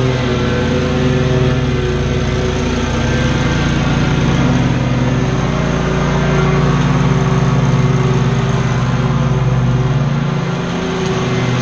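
Lawn mower engine running steadily at a constant pitch, dipping slightly in level about ten seconds in.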